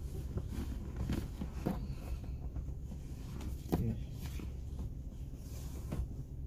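Scattered light knocks and rustling of things being handled, over a steady low rumble, with one sharper knock a little past the middle.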